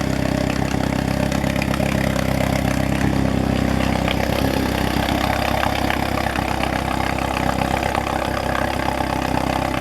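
6 hp Sea King outboard motor's two-stroke engine idling steadily, running smoothly after a long time out of use.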